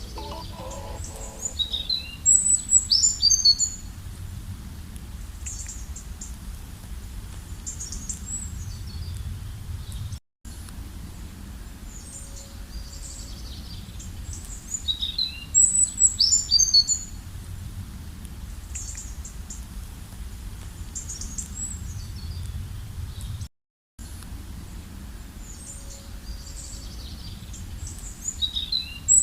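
Songbirds singing and chirping over a steady low background rumble. A louder, identical song phrase comes three times, about every 13 seconds. The sound cuts out completely twice, briefly.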